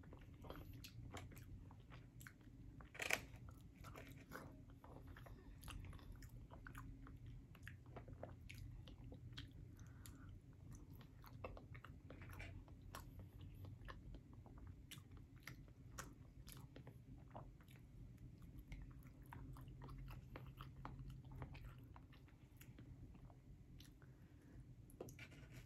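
Faint chewing and mouth sounds of a person eating steak and cooked vegetables: scattered soft wet clicks and smacks, with one sharper click about three seconds in.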